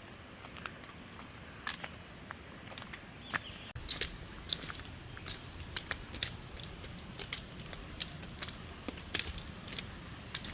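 Footsteps crunching on a dirt-and-gravel trail, a short crackling click about every half second, over a faint steady high whine.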